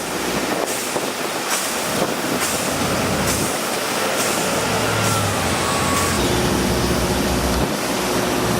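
Road traffic: a heavy vehicle running close by, with a faint falling whine in the middle.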